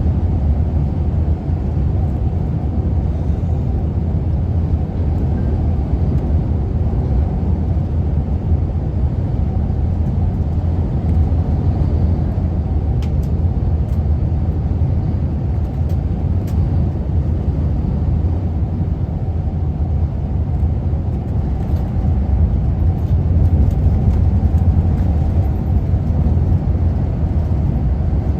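Strong wind buffeting the microphone: a loud, steady low rumble with no pauses.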